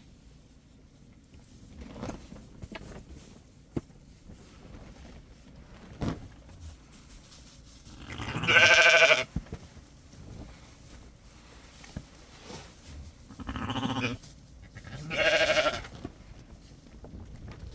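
Sheep bleating three times: a long, loud bleat about halfway through, then a deeper, lower bleat and another high one near the end, with faint knocks and rustling in between.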